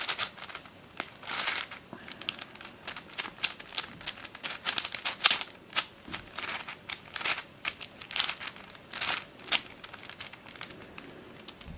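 Plastic layers of a 4x4x6 cuboid twisty puzzle being turned by hand: irregular quick clicks and scrapes as the pieces slide and snap into place.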